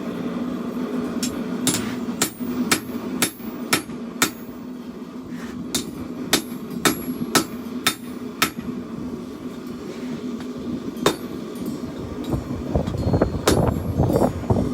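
Hammer blows on steel at the forge: two runs of ringing strikes, about two a second, then a few single blows, over a steady hum. A louder low rushing noise comes in near the end.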